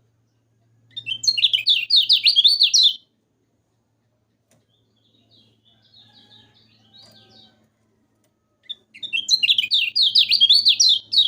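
Kecial kuning, a white-eye, singing: two loud bursts of rapid, zigzagging high chatter, each about two seconds long, one near the start and one at the end, with softer calls in between.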